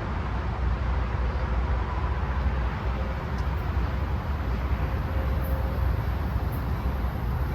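Tri-Rail commuter train running at the station: a steady low rumble with a faint hum over it.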